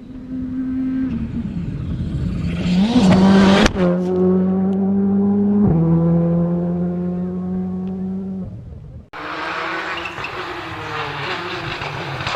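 Rally car engine revving hard, rising in pitch, with a sharp crack about three and a half seconds in, then holding a high steady note that drops at a gear change and slowly falls away as the car passes. About nine seconds in the sound switches abruptly to another rally car at speed, with a falling engine note.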